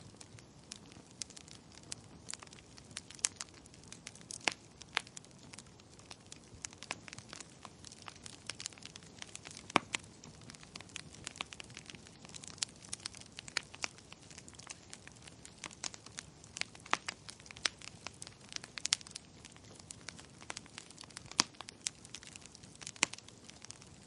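Wood fire crackling in a fireplace: irregular sharp pops and snaps, several a second, some much louder than others, over a soft steady hiss.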